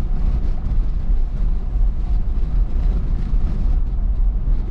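Pickup truck driving, with a steady low road and engine rumble heard from inside the cab.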